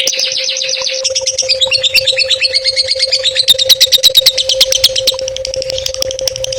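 A songbird singing a fast, rattling trill of short repeated notes, about ten a second. The notes grow louder and sharper in the middle, then ease off near the end.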